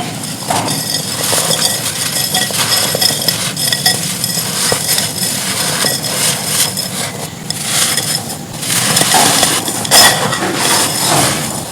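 Dry red clay being crumbled and crushed: a dense, continuous crackling and crunching of many small gritty breaks, loudest about ten seconds in.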